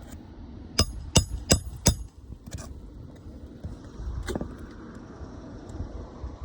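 Hammer striking a roof snake to drive a roofing nail under an asphalt shingle: four quick ringing metal blows about a third of a second apart, then one more blow a couple of seconds later.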